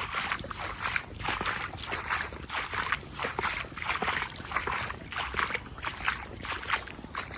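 Footsteps wading through shallow floodwater: a regular sloshing splash about twice a second.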